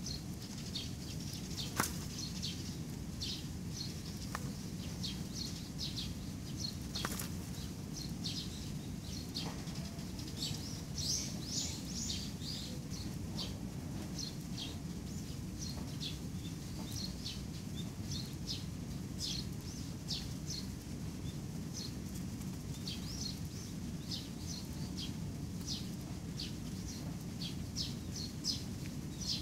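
Small birds chirping in quick short notes again and again over a steady low rumble, with a sharp click about two seconds in and another about seven seconds in.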